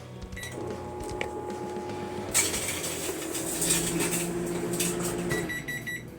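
Microwave oven started with a keypad beep, then humming as it runs for about five seconds with two CDs inside. About two seconds in, a loud crackling starts suddenly as the CDs' metal layer arcs, and it stops when the oven shuts off. A string of short end-of-cycle beeps follows.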